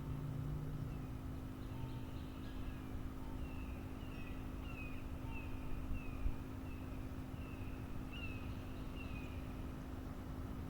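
A bird calling a run of short, downward-slurred notes, about two a second, over a steady low hum.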